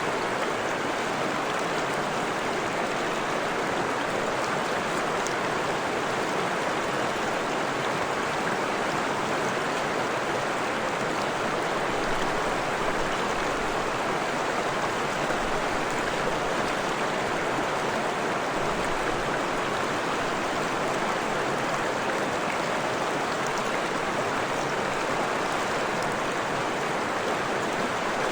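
Freshwater forest stream flowing with a steady, even rush of water.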